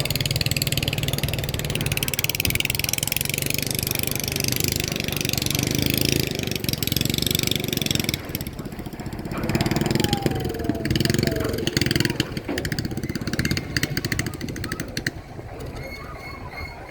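A motor vehicle's engine running, with a steady low hum and a hiss over it, and voices now and then.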